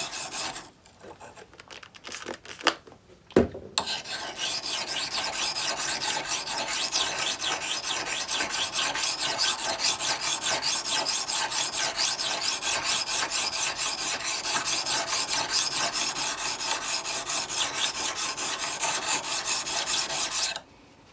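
Steel chisel rubbed rapidly back and forth on a whetstone, a steady rhythmic scraping that grinds the rust pitting out of its flat back. It starts after a few clicks and knocks as the chisel is set down on the stone, and stops abruptly near the end.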